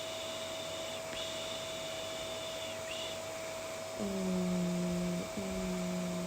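Vacuum cleaner running steadily with a constant motor whine. About four seconds in, a voice starts a long, low hummed 'eee', held with two brief breaks.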